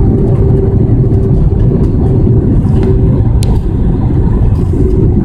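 Airbus A320 cabin noise: a loud, steady rumble of the engines and airflow with a steady hum running through it.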